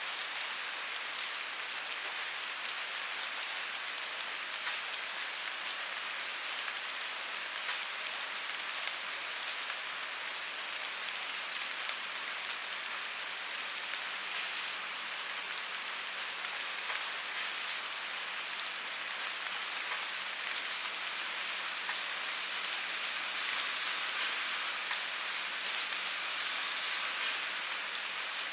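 Steady rainfall: an even hiss with many small, scattered drop ticks, unchanging throughout.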